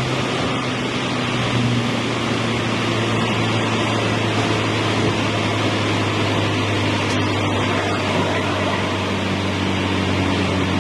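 Modified Honda Civic Type R FL5's turbocharged four-cylinder engine and exhaust holding a steady drone at constant speed, with no revving, over an even hiss of road and wind noise.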